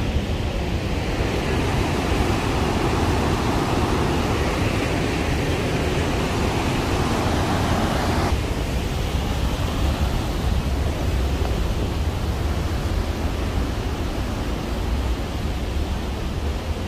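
Steady rush of a large waterfall, the Rhine Falls, close by, with a deep rumble underneath. About halfway through, the hissing middle part of the rush drops away suddenly while the low rumble carries on.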